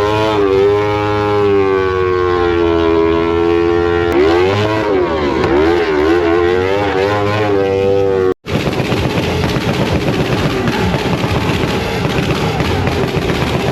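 A motorcycle engine revved hard and held at high revs, then blipped repeatedly up and down, as in a burnout. Just past eight seconds it cuts off abruptly and gives way to a rougher, noisier engine sound.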